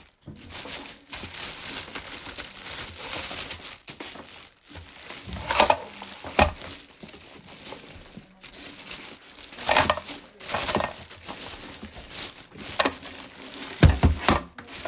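Packaging crinkling and rustling as it is handled while a coffee machine is unboxed, with several knocks.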